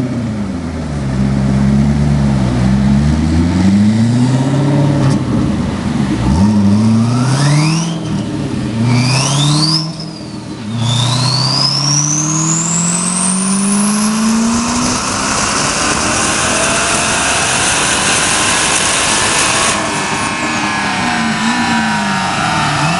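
Twin-turbocharged Corvette V8 revved in several short blips, a high turbo whistle rising with each. About eleven seconds in it pulls long and hard, pitch and turbo whistle climbing together into a full-throttle roar, then winds down near the end.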